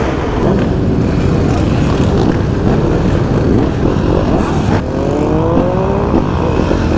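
Engines running loudly, with one revving up in a rising pitch about five seconds in.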